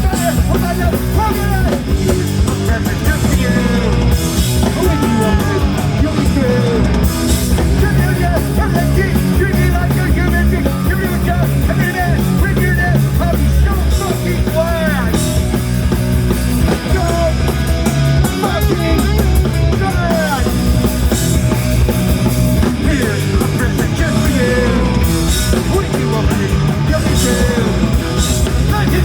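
Hardcore punk band playing live, loud and fast: distorted guitars, bass and drums with cymbal crashes, and shouted singing.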